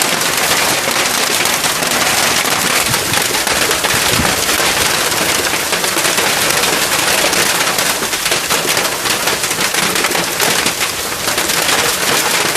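Hailstorm: heavy rain with hailstones pelting a hard surface in a dense, steady clatter of rapid sharp impacts.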